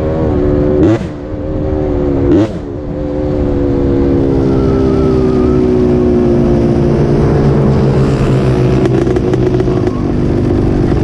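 Off-road engines (a quad and a dirt bike) revving for a drag race. There are two quick throttle blips about one and two and a half seconds in, then the engines are held at steady high revs as the machines run, the pitch slowly falling.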